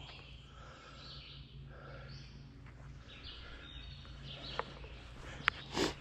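Faint birdsong in the woods over a low steady background hum, with a few sharp knocks and a thump near the end.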